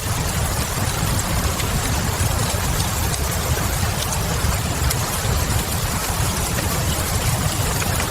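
Steady rain and wood-fire ambience: an even hiss of rain over a deep, constant rumble, with occasional small crackles from the fire.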